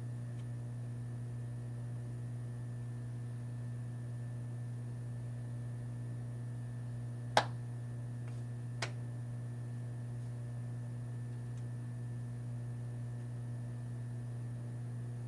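A steady low hum, with two short sharp clicks a little past the middle, about a second and a half apart.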